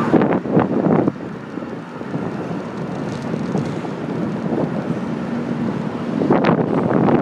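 Wind buffeting the microphone of a phone mounted on the handlebars of a moving bicycle, a dense rumble with stronger gusts in the first second and again about six seconds in.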